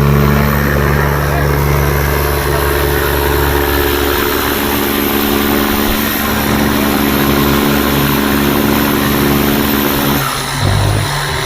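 Tractor engines running steadily at high power with a dense, noisy roar; the engine note breaks off and changes about ten seconds in.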